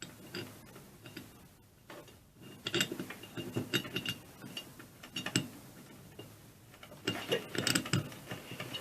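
Small metal parts of an air compressor clicking and clinking as they are handled and fitted during reassembly, in short clusters of sharp ticks about three seconds in, around five seconds, and again near the end.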